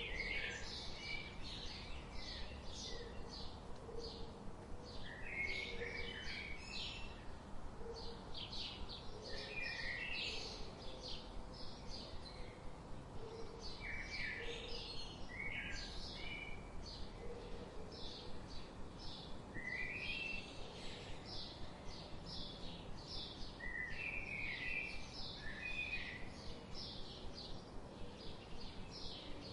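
Several songbirds chirping and singing: quick high chirps follow one another throughout, with lower warbled phrases breaking in every few seconds, over a steady background hiss.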